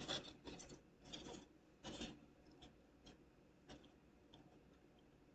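Faint handling of small wooden craft sticks being set and pressed into place: a few short scratchy rubs in the first two seconds, then scattered light ticks.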